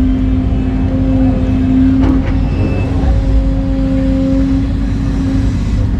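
Excavator's diesel engine running steadily with a constant deep hum, and a faint knock about two seconds in.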